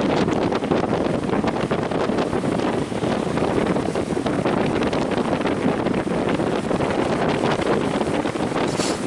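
Strong wind buffeting the microphone over the rush of breaking surf.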